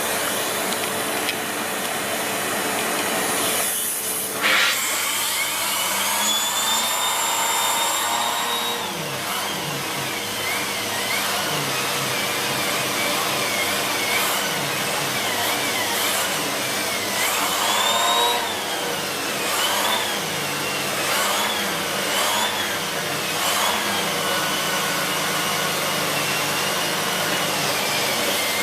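Siemens Z6.0 Power 2500 W bagged cylinder vacuum cleaner running with its air-driven mini turbo brush worked over a chair's upholstery. A brief knock comes about four seconds in, then the brush's high whine rises and wavers up and down as it is pushed back and forth.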